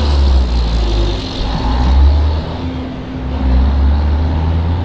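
Road traffic: a heavy vehicle engine rumble that swells and fades, with a steady hum over it.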